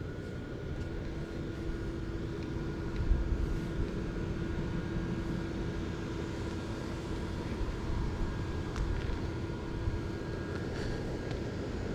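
Steady low rumble of vehicle noise, with a faint steady hum that comes in about a second in and fades near the end.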